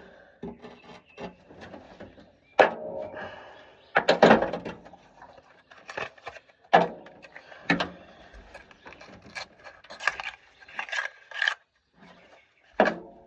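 Metal hand tools and parts being handled: irregular clinks, knocks and scrapes, a dozen or so sharp clicks scattered through, with rubbing and rattling between them.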